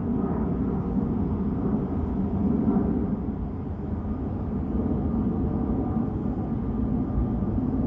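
Airbus A319 jet engines running at climb power: a steady rumble with faint, even tones above it.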